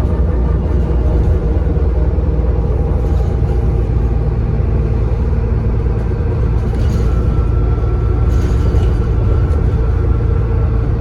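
Bus diesel engine running under way, heard from inside the bus as a steady low drone with road rumble. A faint, steady turbocharger whistle comes in about seven seconds in.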